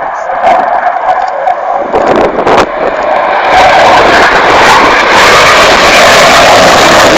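Tornado GR4 jet, its twin RB199 turbofans roaring as it flies past low, with a few sharp knocks in the first couple of seconds. About three and a half seconds in the roar swells to a loud, full-range blast and holds.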